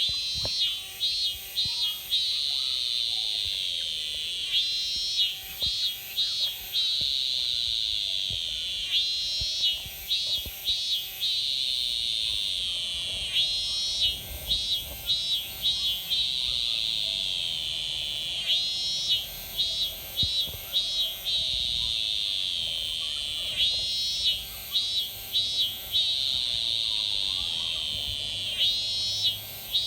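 Japanese cicadas (semi) singing: a steady, high, shimmering buzz runs underneath. Over it a call repeats about every four and a half seconds, one longer pulsed burst followed by three short pulses, seven times in all.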